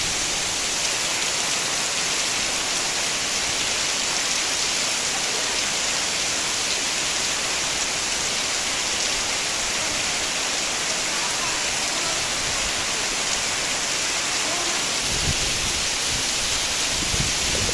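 Heavy tropical rain pouring down in a steady, dense hiss. Low, gusty rumbles join in about fifteen seconds in.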